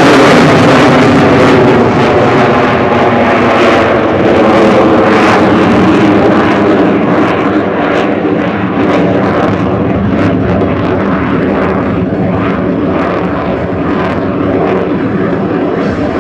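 KAI T-50 Golden Eagle's single turbofan jet engine sounding as the trainer flies a display pass. It is loudest at the start and fades gradually as the jet moves away.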